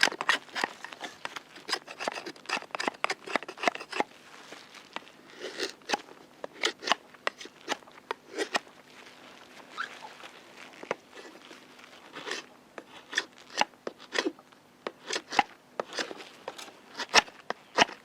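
A hand tool rasping on wood in quick, even strokes, about four or five a second, for the first few seconds, then giving way to scattered sharp clicks and snaps.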